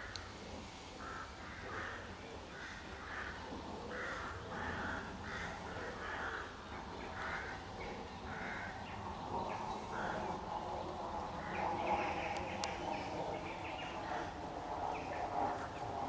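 Short, harsh, rasping bird calls repeated about twice a second, fading out about ten seconds in. A steady drone rises about nine seconds in.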